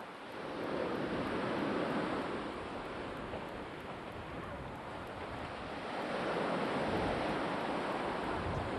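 Black Sea surf washing onto the shore in a steady rush that swells and eases in slow surges, rising about two seconds in and again near the end.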